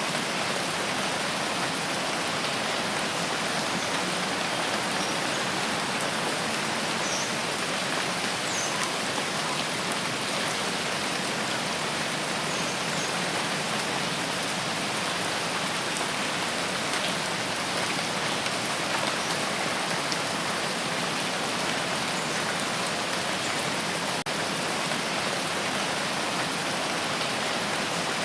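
Steady rain falling, an even hiss of drops with faint patter.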